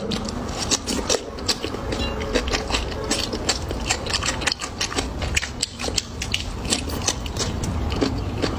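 Close-miked chewing of pig tail: a quick, irregular run of wet clicks and smacks from the mouth.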